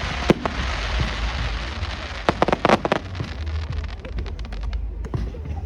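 Fireworks crackling and popping: scattered sharp cracks, with a dense run of them a little over two seconds in, over a hissing haze and a steady low rumble.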